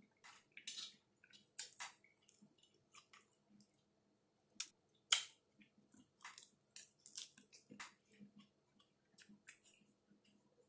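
A person chewing a mouthful of taco close to the microphone: irregular small crunches and wet mouth clicks.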